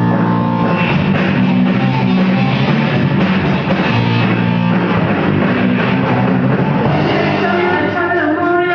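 Live rock band playing loud, with drums and guitars, during a sound check.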